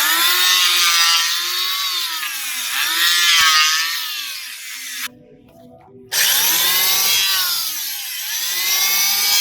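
Makita electric hand planer running on new carbon brushes and cutting wood: a loud motor whine with cutting noise whose pitch dips and recovers as the blades bite. It stops about five seconds in and starts again a second later for a second pass.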